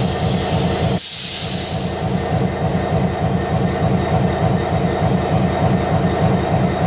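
Diesel-electric locomotive of a long coal train passing close by, with a heavy rhythmic rumble of engine and wheels on the rails. About a second in, the sound breaks off sharply and a short burst of hiss follows before the rumble returns.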